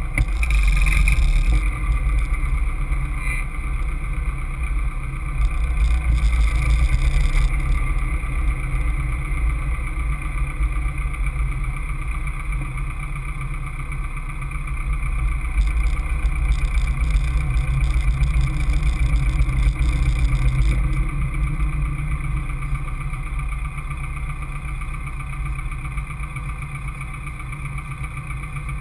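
A Caterham Seven's engine heard from its open cockpit at racing speed on track, pulling hard and then easing as the driver accelerates and lifts through corners. A heavy low rumble of wind buffets the microphone. The sound swells in several stretches and quietens near the end.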